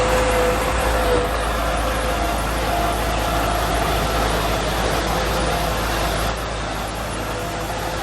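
A heavy diesel earthmoving machine runs steadily. A whining tone in its sound steps up in pitch about two seconds in, and the engine gets slightly quieter near the end.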